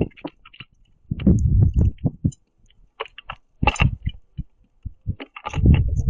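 Birds pecking seed and shuffling on a platform feeder close to the microphone: irregular clusters of dull thumps with scattered sharp taps.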